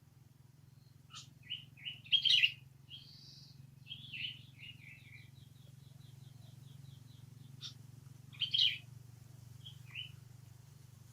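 High-pitched animal chirps in short clusters, with a rapid even trill in the middle, over a low steady hum.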